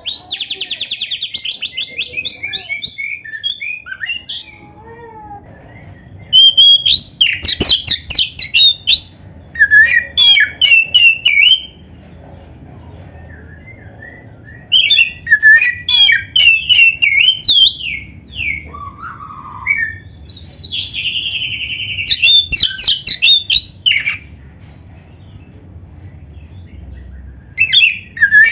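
Oriental magpie-robin (kacer) singing in loud bouts of varied whistled phrases and rapid trills, with pauses of a few seconds between bouts.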